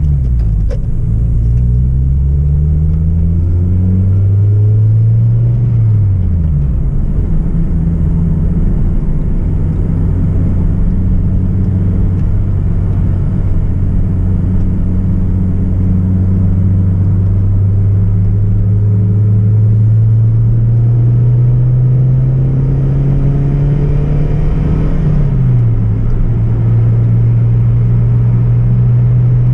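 Hyundai Tiburon's 2.0-litre petrol four-cylinder engine pulling under acceleration, its pitch climbing and then dropping at each gear change: right at the start, about six seconds in, and again a few seconds before the end, with a long slow climb in between.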